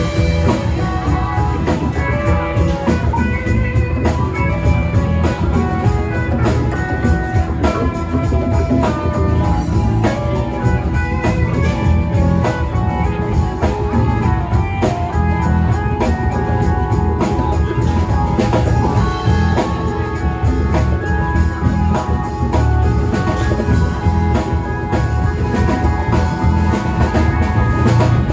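Live rock band playing an instrumental passage: an electric guitar plays a run of short melodic notes over a steady drum kit and bass.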